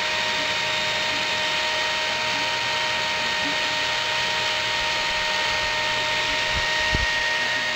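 Hair dryer running steadily: a constant rush of blown air with a fan whine on top. A brief low thump comes about seven seconds in.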